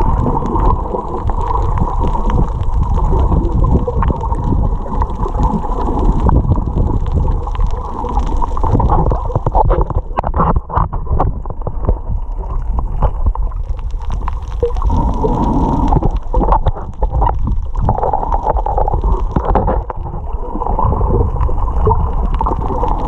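Muffled water sloshing and gurgling around a swimming snorkeler in the sea, with a run of splashes and bubbles in the middle.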